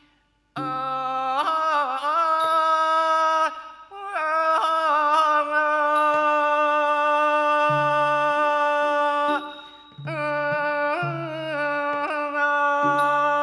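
Thai classical singing: a voice holding long, wavering melismatic phrases over a steady instrumental drone and short low notes.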